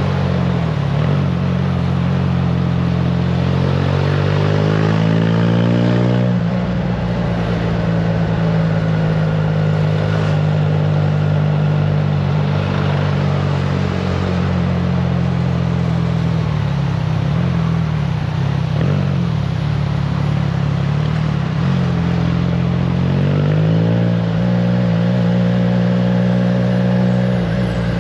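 Triumph Trident 660's three-cylinder engine through a FireTong aftermarket exhaust while riding: the pitch climbs under acceleration a couple of seconds in, drops suddenly at an upshift, holds steady while cruising, and climbs again near the end. Wind noise on the microphone underneath.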